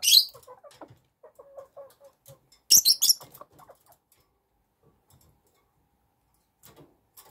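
Small bantam chickens (silkie and serama) calling: short soft clucking notes, with two loud shrill bursts, one at the start and one about three seconds in.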